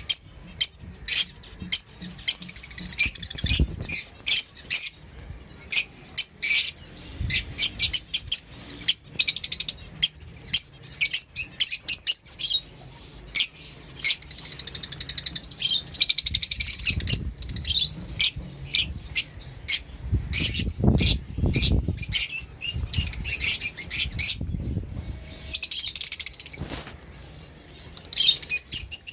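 Fischer's lovebirds and finches chirping: a dense, busy run of short, high chirps, with a few low, dull rumbles in between.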